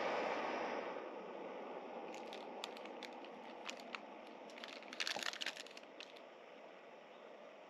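A sealed potato-chip bag with an egg omelet mix inside crinkling and crackling as it is handled into a pot of water, over a steady hiss that slowly fades. The crackles come in scattered bursts, thickest about five seconds in.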